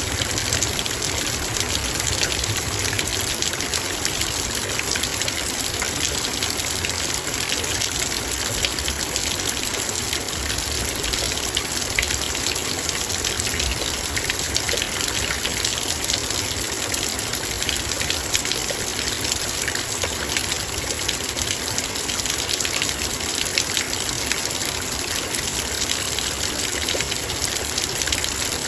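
Heavy rain falling steadily on a metal bowl: a dense, even patter of countless fine drop ticks.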